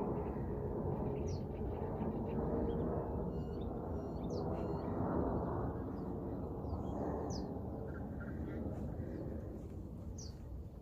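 Small birds giving short, high calls about four times, a few seconds apart, over a steady low rumble of wind and movement on the microphone.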